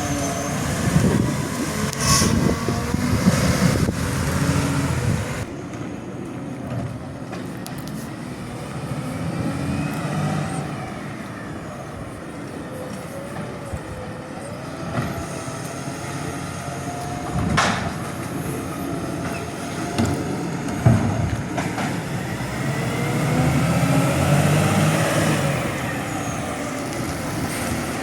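Heavy truck engine running in traffic, loud at first, fading through the middle and building again near the end, with a few sharp knocks along the way.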